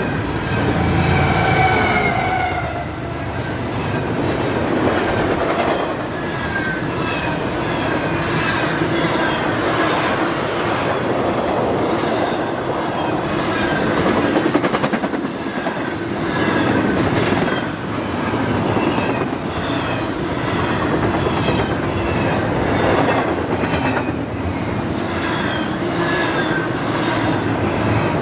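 A double-stack intermodal freight train rolls past close by: a steady, loud rumble and clatter of well-car wheels on the rails, with short high squeals now and then.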